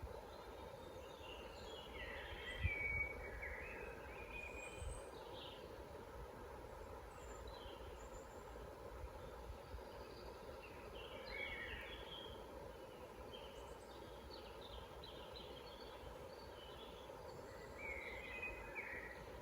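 Woodland songbirds singing: short, quick chirping and warbling phrases, clearest about two seconds in, around eleven seconds and near the end, over a steady low background hiss. A couple of faint low thumps come a few seconds in.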